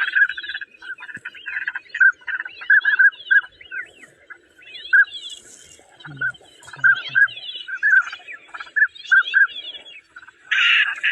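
Ducks calling: a stream of short, repeated, fairly high calls with quick gaps between them, joined by a few brief deeper calls about six to seven seconds in.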